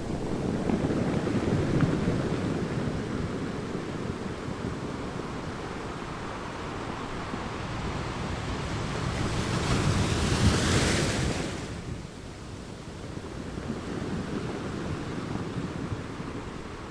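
Ocean waves washing onto a beach. One wave swells about two seconds in, and a bigger one breaks with a hiss around ten seconds in before the wash fades.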